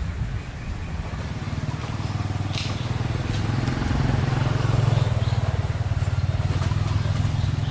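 Engine of a passing motor vehicle running with a steady low hum, growing louder toward the middle and then holding.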